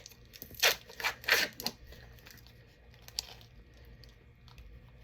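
Plastic wrapper of a cheese stick being torn open: three quick rips within the first couple of seconds.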